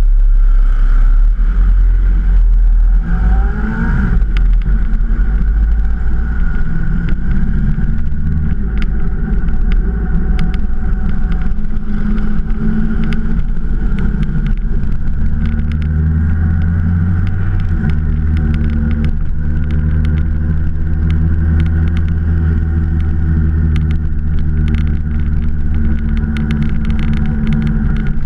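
Motorcycle engine running under way, rising in pitch as it accelerates about three seconds in, then holding a steady drone at cruising speed, with road and wind noise.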